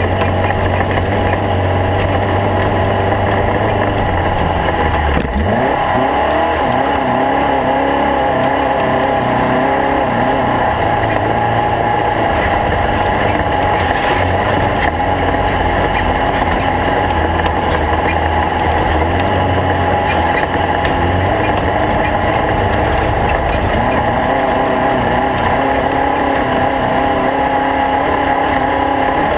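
Stock VW Beetle race car's air-cooled flat-four engine running hard and steadily. About five seconds in there is a brief break, then the pitch climbs again, as at a gear change.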